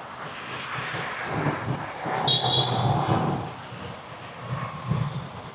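Street traffic noise as a vehicle passes, swelling to its loudest a couple of seconds in and then fading, with a brief high squeal at its peak.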